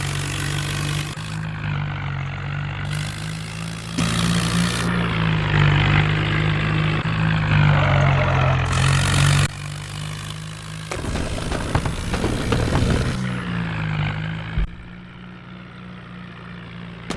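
John Deere 5055 tractor's diesel engine running while pulling a loaded trolley. Its pitch rises and falls a little, and the level jumps abruptly several times.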